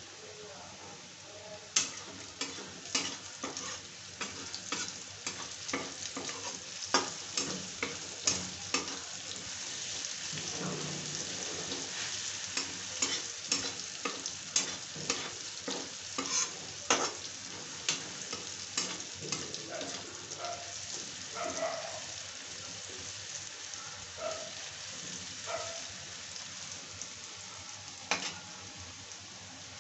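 Chopped onions and tomatoes frying in oil in a kadai with a steady sizzle. A spatula scrapes and knocks against the pan many times, at irregular intervals, as the masala is stirred.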